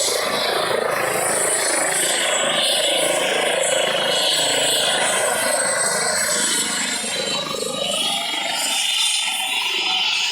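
Eurocopter EC135 twin-turbine helicopter running steadily, a dense rush of rotor and turbine noise with a thin high whine over it.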